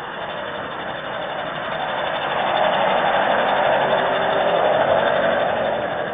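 A car passing on a wet road: its tyre hiss swells to a peak about three to five seconds in, then fades.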